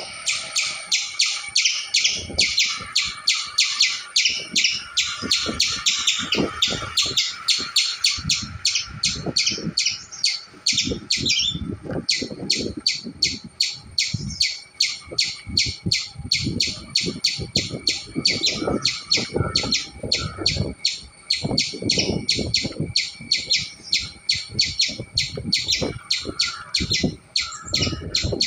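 Squirrel chattering: a long, fast run of short, high chirping calls, several a second and hardly pausing, with irregular low thuds beneath.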